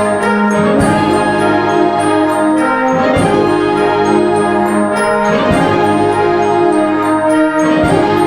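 Brass ensemble of trumpets and trombones playing slow, sustained chords, moving to a new chord about every two and a half seconds.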